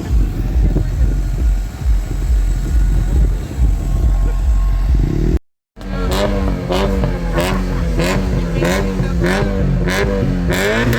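Car engine sound: a deep, busy rumble, then after an abrupt cut an engine held high and bouncing up and down in quick bursts. Sharp pops crack out roughly every half second, the pops-and-bangs crackle of a tuned exhaust.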